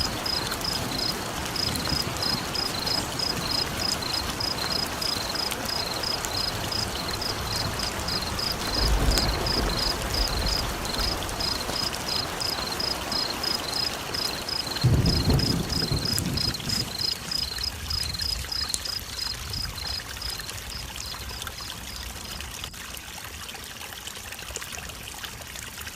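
Steady rain hiss with a frog calling over it in a quick, regular high two-note chirp, about three calls a second, that stops about twenty seconds in. Two low rumbles come through, one about nine seconds in and a stronger one about fifteen seconds in, and the whole ambience fades out near the end.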